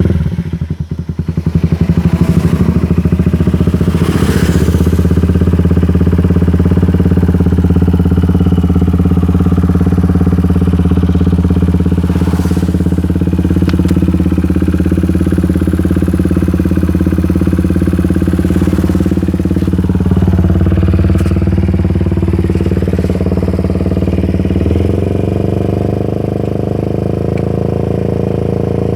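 Suzuki Satria FU's 150 cc four-stroke single running through an aftermarket AT19 Racing Series full exhaust, just started and idling steadily. The idle settles a little lower and quieter near the end.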